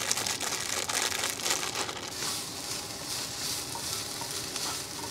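Onions, garlic and carrots sautéing in hot oil in a pan: a sizzle full of small crackles, thicker in the first couple of seconds and steadier after that.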